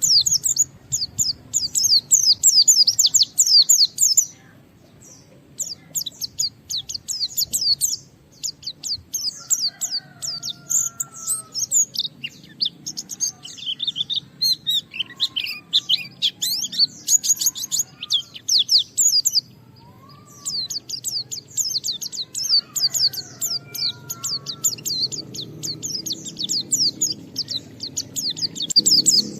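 A white-eye (pleci) singing hard and fast: rapid, high chattering and twittering phrases run almost without pause, breaking off briefly a few times. It is the excited song of a bird challenging a rival.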